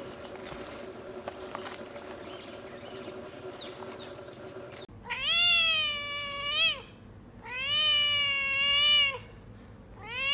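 Cat meowing: three long, drawn-out meows, each rising and then falling in pitch, beginning about halfway through after a stretch of low background noise.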